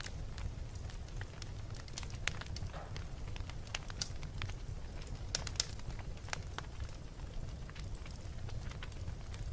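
Wood fire burning in a fireplace: a steady low rumble of flames with irregular sharp crackles and pops from the burning logs, a few louder pops in the middle.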